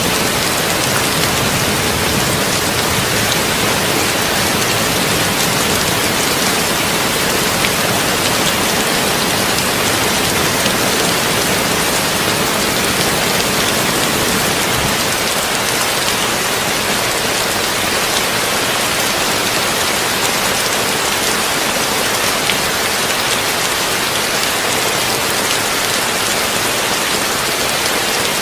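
Heavy rain drumming steadily on a tin roof, a dense hiss dotted with fine drop ticks. A low rumble beneath it dies away about halfway through.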